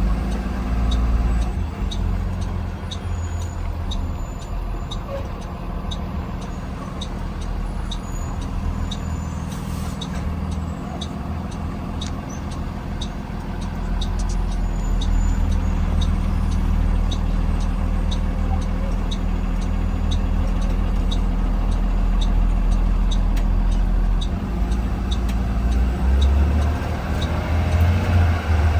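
2020 Blue Bird Vision school bus engine running, heard from inside the bus, growing louder about halfway through. A steady, evenly spaced ticking runs alongside it.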